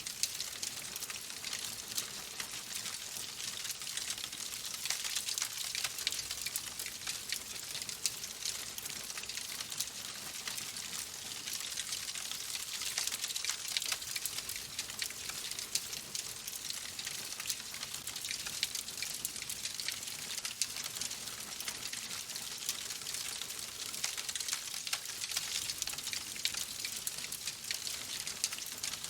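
Fireplace fire crackling: a steady hiss with dense, small, irregular pops and snaps throughout.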